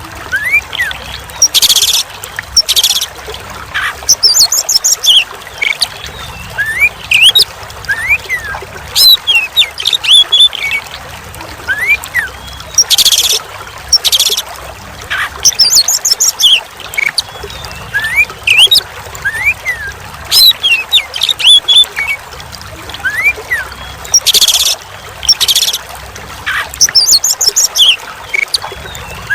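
Oriental magpie-robin (kacer) singing, with varied rising and falling whistled notes, quick trills and loud harsh bursts, over steady trickling water. The same run of phrases repeats about every eleven seconds, as in a looped training recording.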